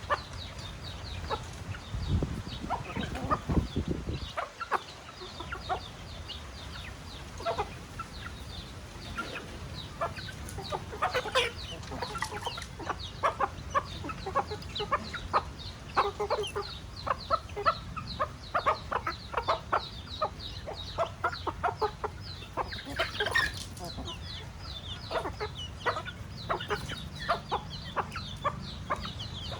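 A flock of chickens clucking and calling continuously, many short calls overlapping, with a low rumble about two to four seconds in.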